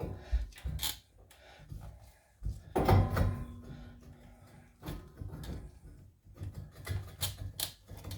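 Knocks, clicks and scrapes of metal parts being handled as a new front wheel hub assembly is fitted. The loudest knock comes about three seconds in, with a short ring after it.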